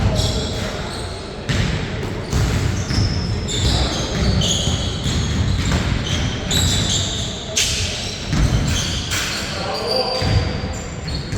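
Basketball being dribbled and bounced on an indoor court during play, with sneakers squeaking on the floor and players calling out.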